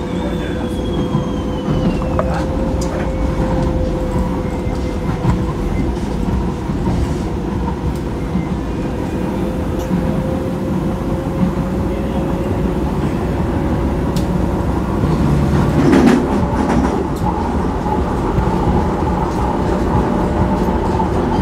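Docklands Light Railway train running, heard from inside the carriage: a steady rumble of wheels on the track with a steady hum over it, and a louder knock about sixteen seconds in.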